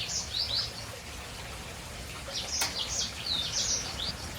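Small aviary finches and canaries chirping in short high calls, in a burst at the start and another busy run past the middle, over the steady splash of a cascading waterfall pond. One sharp click comes about two and a half seconds in.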